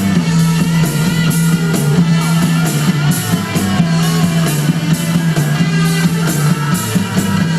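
Rock music with electric guitar, a heavy bass line and drum kit, played back through a pair of Edifier R1000TCN computer speakers.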